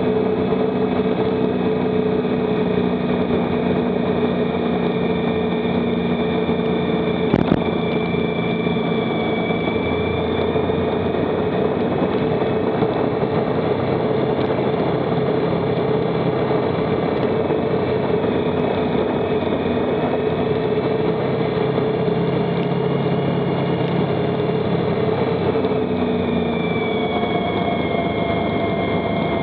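Motorcycle engine running at a steady pace while riding, with heavy wind rush on the microphone; a single sharp knock about seven seconds in.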